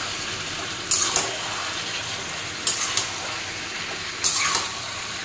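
Fish bones and vegetables sizzling in oil in a kadai, stirred with a metal spatula: three scraping strokes about a second and a half apart. The mix is being cooked down until its water dries off and the oil separates.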